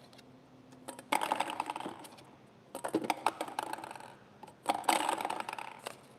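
Plastic ping-pong balls clattering and clicking against each other in a lottery ball draw machine, in three rattling bursts of about a second each.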